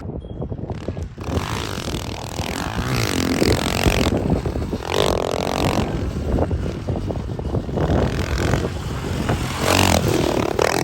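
Dirt bike engine revving up and down repeatedly as the bike is ridden.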